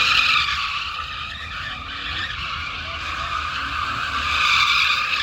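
Tires screeching continuously on pavement as a vehicle spins or slides them, swelling loudest just after the start and again near the end.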